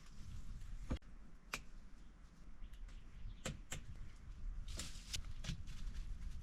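A series of sharp, irregular knocks and clicks, about seven over a few seconds, over a low steady rumble, consistent with handling and working wood or bark by hand.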